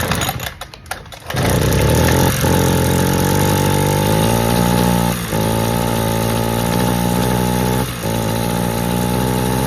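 A brush cutter's small engine catches about a second in and then runs at a steady speed, briefly dipping three times. The engine has a clogged, carbon-choked exhaust.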